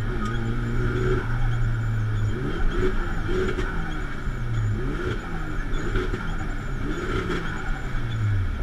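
Drift car's engine heard from inside the cabin, holding a steady pitch for about two seconds and then rising and falling in pitch several times as the throttle is worked on the wet course.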